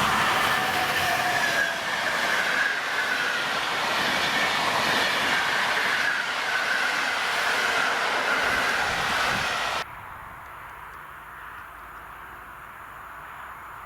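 Train passing close by on the main line, with dense rail noise and a high whine that slowly falls in pitch. It cuts off abruptly about ten seconds in to a much quieter background.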